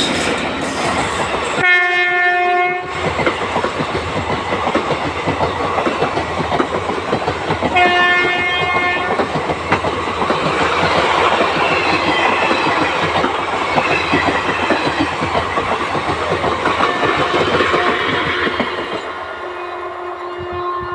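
Electric train passing close by, its wheels clattering over the rail joints, with two horn blasts of about a second each. The rumble dies away near the end.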